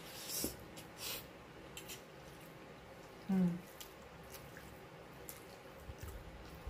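Wet mouth sounds of a person eating pasta: a few sharp lip smacks in the first two seconds while chewing, and a brief hum about three seconds in.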